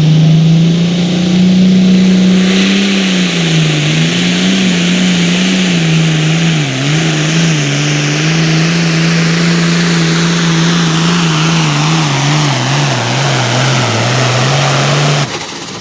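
Pulling vehicle's engine at full throttle under heavy load during a pull, its pitch sagging and recovering as it works against the sled. The engine sound stops abruptly near the end.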